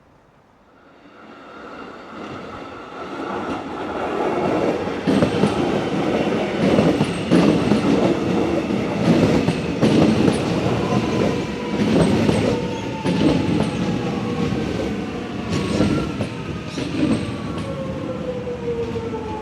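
A train approaching and passing through the station, growing louder over the first few seconds, with wheels clattering over the rail joints and a slowly falling whine in the second half.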